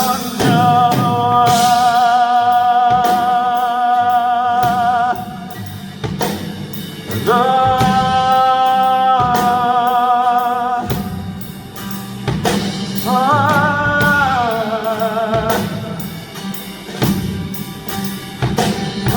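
Live pop-rock ballad: a male singer holds long notes with vibrato over a band with a steady drum beat and guitar.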